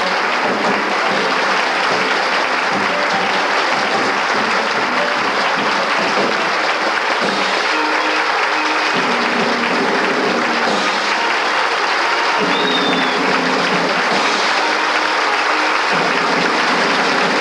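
A theatre audience applauding steadily. Instrumental music becomes audible underneath from about halfway through.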